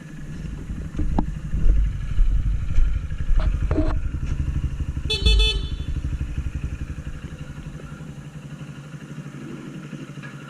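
Honda CG 160 Titan motorcycle's single-cylinder engine running at low revs, with a short horn beep about five seconds in. The engine then quietens in the second half.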